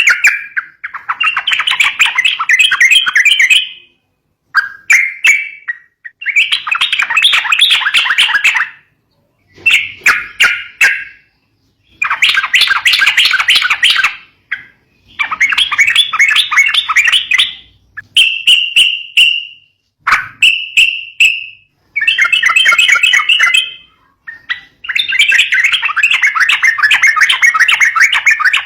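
Yellow-vented bulbul (trucukan) calling in a series of loud, fast chattering bursts of one to three seconds, separated by short pauses. It is a fighting-style call used to lure young bulbuls.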